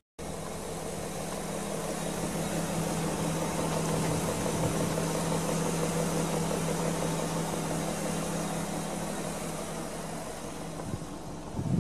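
BMW Alpina B10 V8S's 4.8-litre V8 engine running with a steady hum that gets louder over the first few seconds and eases off toward the end. A brief low thump comes near the end.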